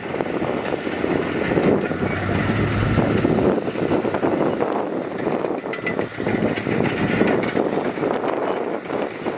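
Heavy earthmoving machinery working rock: a diesel engine running under load amid continual, irregular scraping and clattering of rocks.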